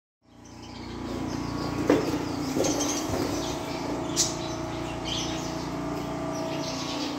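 Birds chirping a few short times over a steady low hum.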